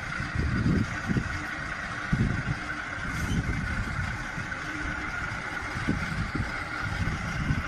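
A motor vehicle's engine running, heard as an uneven low rumble with a steady whine above it.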